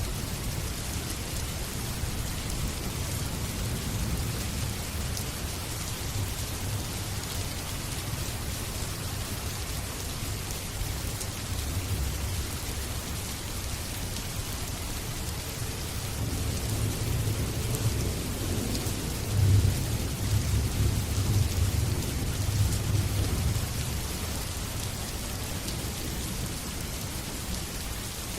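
Steady rain falling, with a low rumble of thunder that swells in the second half and peaks about two thirds of the way through.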